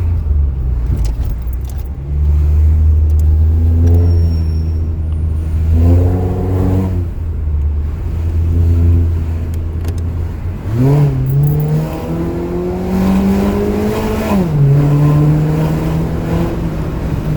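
Exhaust of a turbocharged car fitted with an RV6 downpipe and a test pipe in place of the catalytic converter, idling with three short throttle blips. About eleven seconds in it is revved up and held, drops back briefly, then is held at raised revs again.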